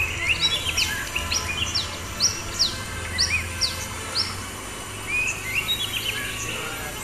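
Oriental magpie-robin (kacer) singing: a quick run of sharp, high downslurred whistles mixed with short chirps. It pauses a little past halfway, then starts again.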